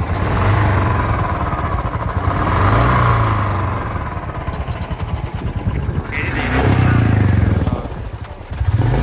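Royal Enfield 350 single-cylinder motorcycle engine running while the bike stands still, revved up and back down twice.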